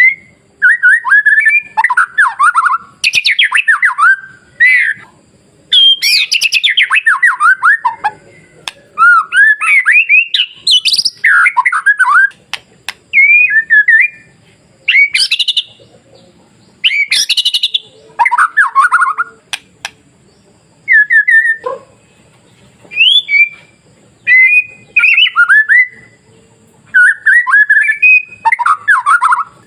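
White-rumped shama (murai batu) singing a loud run of varied song phrases, mixing clear gliding whistles and fast note runs. Each phrase lasts a second or two, with short pauses between.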